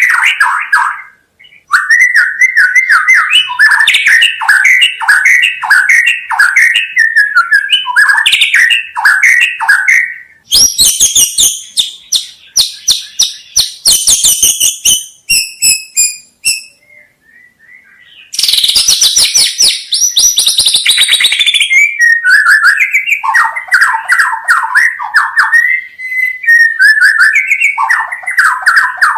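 White-rumped shama (murai batu) singing loud, varied phrases made of runs of quickly repeated notes. Twice in the middle the song turns into a fast, very high-pitched rattling chatter, with a short pause between the two.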